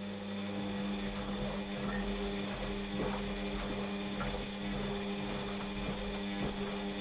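Washing machine running mid-program: a steady motor hum with a few faint, irregular clicks.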